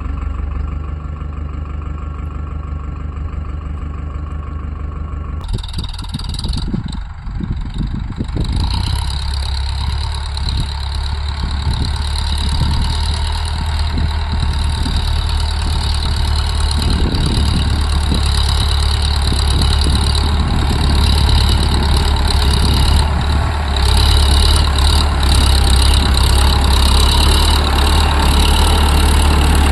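Tractor's diesel engine running steadily. The sound changes abruptly about five seconds in, then grows louder toward the end.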